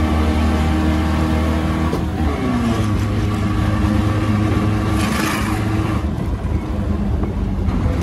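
Supercharged 1915 cc air-cooled VW flat-four in a dune buggy running under way. Its pitch drops about two seconds in, then holds steady.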